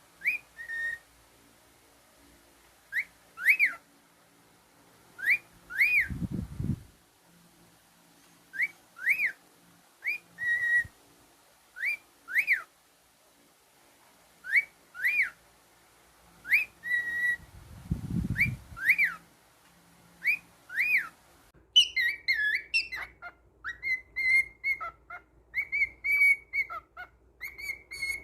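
Cockatiel whistling: a rising-and-falling whistled note, mostly in pairs, repeated every couple of seconds, then near the end a quicker run of short chirpy warbled notes. Two dull low thuds come in between.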